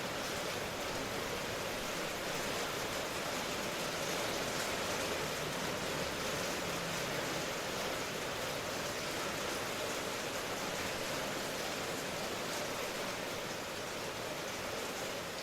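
Steady rain hiss, an even wash of noise with no distinct drops or thunder, in a recording sold as rain white noise.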